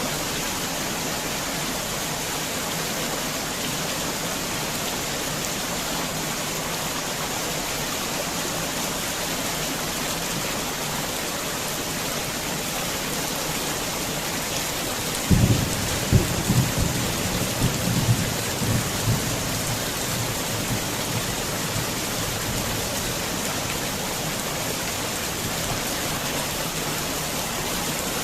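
Heavy rain falling steadily. About fifteen seconds in, a sudden low thunderclap rumbles in several peaks and fades away over a few seconds.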